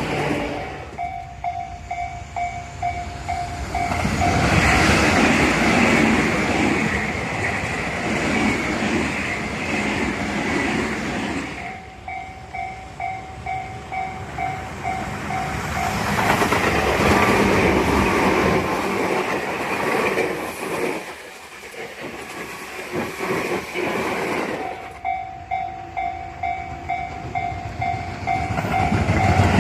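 Tobu Tojo Line electric trains passing one after another, their wheels clattering over the rail joints as the noise swells and fades twice. Between and around the passes a pulsing tone repeats about twice a second.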